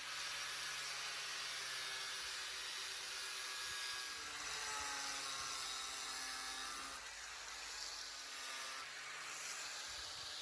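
Power tool running steadily under load, its motor pitch sagging and recovering as it cuts a hole in the rain gutter for the downspout funnel.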